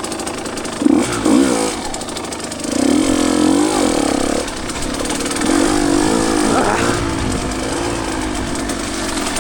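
Two-stroke dirt bike engine being ridden on a trail, revving up and down with the throttle: a sharp rev about a second in, longer pulls around three and six seconds.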